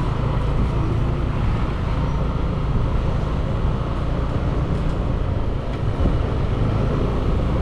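Motorbike engine running steadily while riding, with road noise: a continuous low rumble that holds even throughout.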